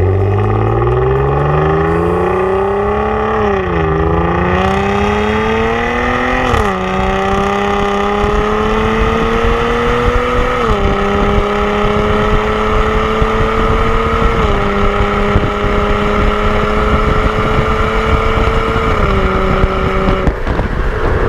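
Second-generation Kia K7 3.0 V6 gasoline engine through a custom cat-back dual-valve exhaust, accelerating through the gears. The pitch climbs and falls sharply at each of three upshifts, then holds a nearly steady drone at speed, with two smaller drops before the tone gives way to road noise near the end.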